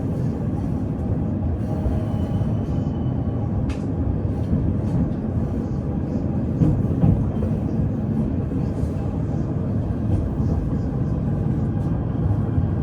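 Running noise of a PKTS 71-931M Vityaz-M low-floor tram heard from inside the car while under way: a steady low rumble of wheels on rail, with occasional sharp clicks and a faint high tone that comes and goes.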